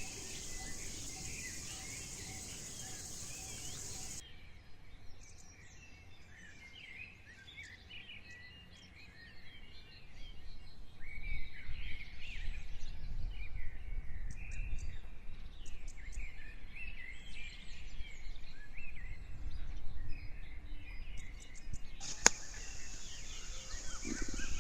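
Wild birds chirping and calling together, many short overlapping calls. A steady high-pitched insect drone runs under them for the first four seconds, stops abruptly, and comes back with a click near the end; a low rumble joins partway through.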